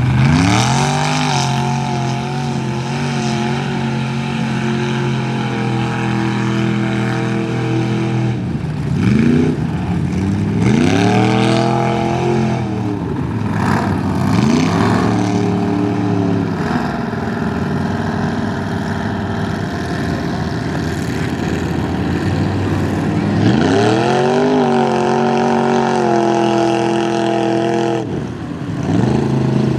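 Mud-bog truck engine revving hard. It climbs to high revs and holds there, falls off and climbs again several times, with the longest hold near the start and another late on.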